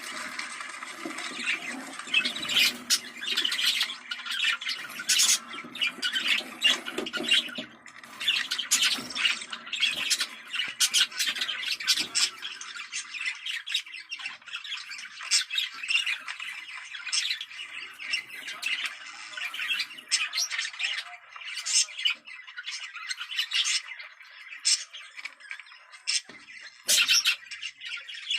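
A flock of budgerigars chattering, with many quick overlapping chirps, warbles and squawks. This is the kind of budgie flock chatter played to bring budgies into breeding condition.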